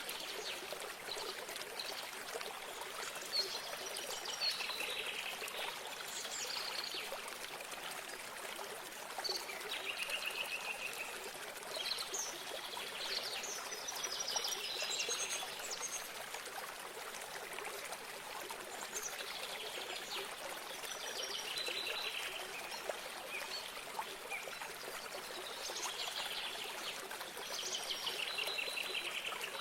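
Water trickling steadily, with songbirds singing short trilled phrases every few seconds over it.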